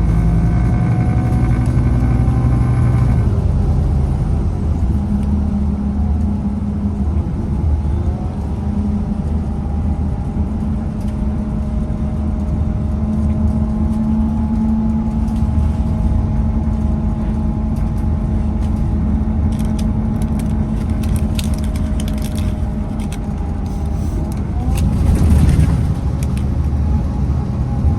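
Scania Citywide CK320UB city bus under way: engine and driveline running, with whining tones that fall as it slows in the first few seconds, then climb and hold steady as it pulls away and cruises. Short rattles come about twenty seconds in, and a louder surge follows near the end.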